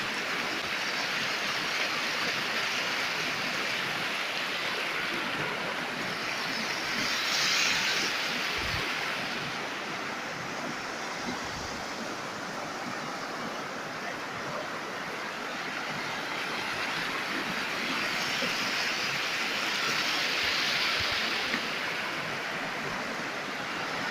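A river in flood rushing steadily, swelling louder about seven seconds in and again near the end.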